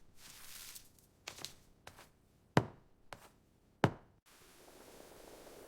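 A handful of sharp knocks spaced unevenly, the two loudest about two and a half and four seconds in. A steady hiss begins just after four seconds.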